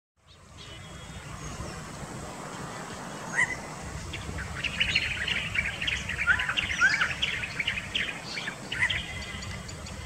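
Small birds chirping in a busy flurry of short, quick calls that grows denser about halfway through, over a steady low background rumble.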